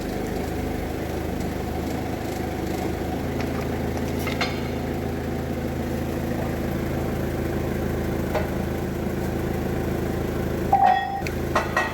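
An engine running steadily at idle, with a few metallic clinks near the end.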